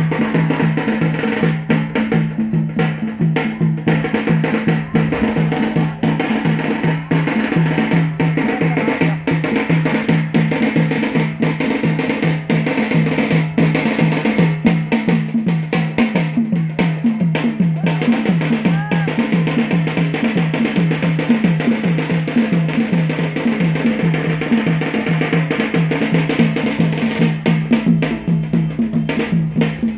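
Drumming for the Yemeni bara' dance: a fast, even beat of low drum strokes with sharp higher knocks layered over it, steady throughout.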